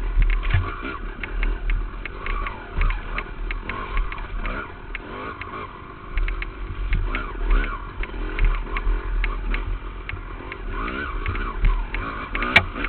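Dirt bike engine revving up and down as the rider works the throttle along a trail, heard from a helmet-mounted camera. Frequent short clicks and knocks come through, with a sharp crack near the end.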